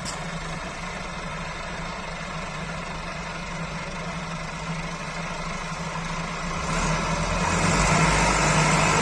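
Tractor engine running steadily with a low hum, growing louder about seven seconds in.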